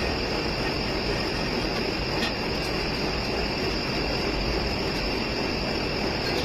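Volvo D13 inline-six diesel truck engine running steadily, a constant rumble with a few faint ticks.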